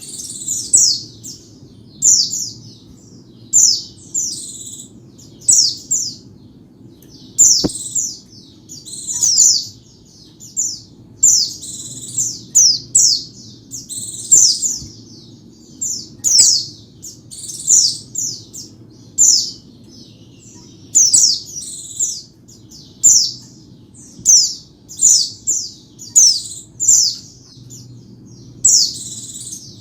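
White-eye (pleci) song: quick clusters of short, high-pitched chirps, repeating about once a second throughout. A faint, steady low hum lies underneath.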